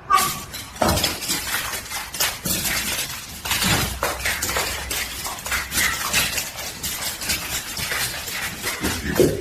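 Irregular clattering and knocking, many small impacts in quick succession with some clinking.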